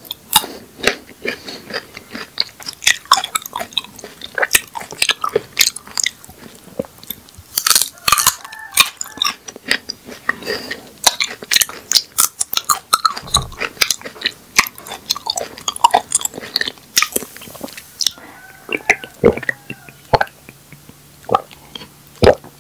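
Close-miked biting and chewing of a raw rabbit-ear cactus pad: many quick, crisp crunches that thin out over the last few seconds.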